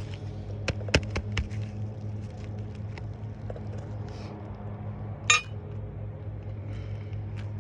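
Asphalt shingles being lifted and handled, giving a few sharp clicks and crackles early on, then one short ringing clink about five seconds in, over a steady low hum.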